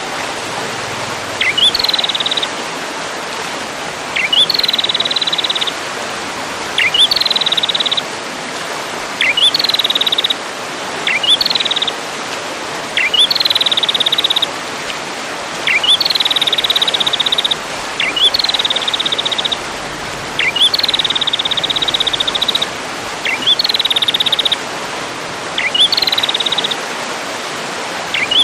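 A songbird repeating one phrase about every two to three seconds: one or two quick rising chirps followed by a fast, rapid trill. A steady hiss runs underneath.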